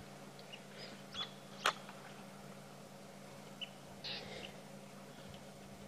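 Faint, short bird chirps over a steady low hum, with one sharp click or snap about a second and a half in and a brief rustle about four seconds in.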